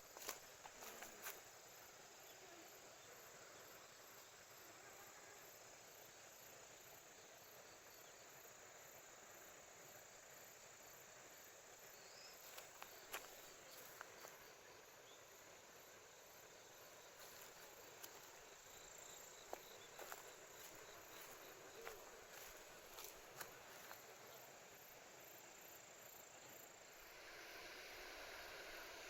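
Near silence: faint outdoor ambience, an even soft hiss with a few scattered small clicks and ticks.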